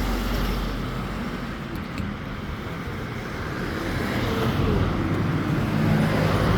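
Road traffic: a motor vehicle's engine and tyres, growing louder over the last couple of seconds as it comes closer.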